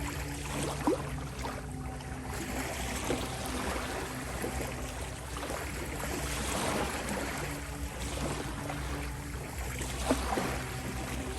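Ocean waves washing in and out, swelling several times, over soft held low tones of a steady ambient drone. Two brief sharper splashes come about a second in and near the end.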